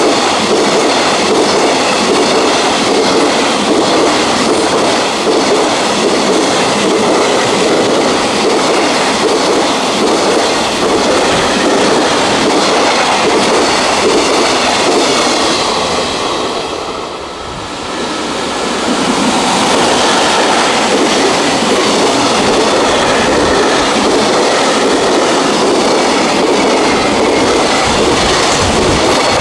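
Freight train running past, its wheels clattering steadily over the rail joints. The noise briefly drops away about two-thirds of the way through, then picks up again.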